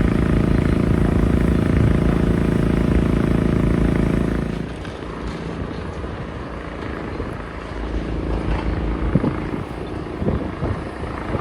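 Demolition-site machinery running with a steady engine drone that drops away about four and a half seconds in, leaving an uneven rumble with scattered knocks.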